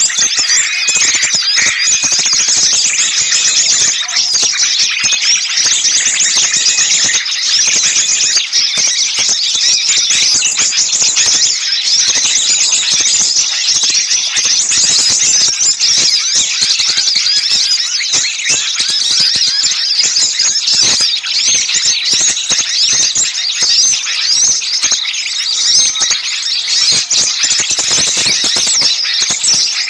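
Dense chorus of many small songbirds calling at once, a steady mass of rapid, high, overlapping chirps and trills. These are noisy, agitated small-bird calls of the kind used as a lure to draw birds in.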